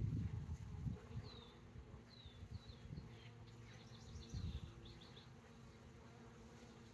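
Honeybee swarm buzzing: a steady, many-toned hum of wingbeats. A bird gives several short, high, downward-slurred chirps and a brief trill over it.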